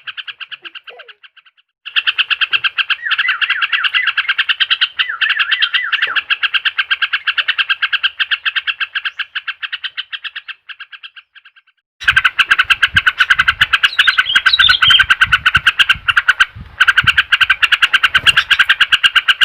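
Yellow-vented bulbul (trucuk) song on a bait recording used to coax a silent bird into singing: a fast, even run of high chirps that breaks off briefly near the start and again about two-thirds of the way through, then resumes.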